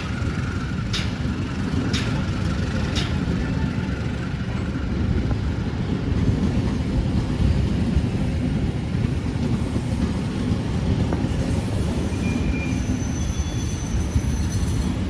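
A train running past with a steady low rumble, with sharp clicks about once a second in the first few seconds and a faint high squeal in the second half.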